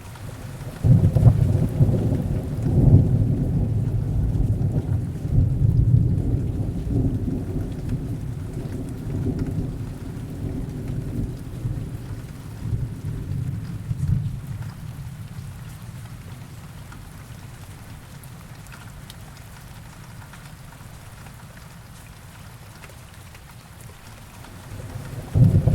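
Heavy rain falling steadily, with a long low rumble of thunder that rolls in about a second in and fades slowly over some fifteen seconds; a second thunder rumble builds near the end.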